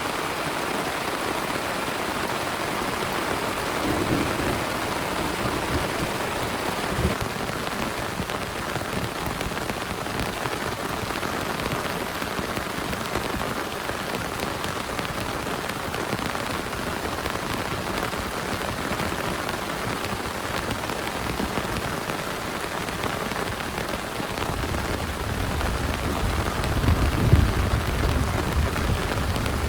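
Heavy, steady rain, with thunder rumbling low a few seconds in and a longer, louder roll of thunder near the end.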